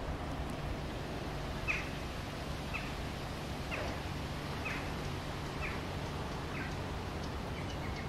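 A bird calling: a short falling call repeated about once a second, starting a couple of seconds in, over a steady low background rumble.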